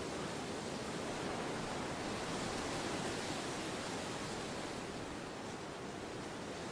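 Wind blowing steadily as an even rushing noise, swelling slightly in the middle and easing a little near the end.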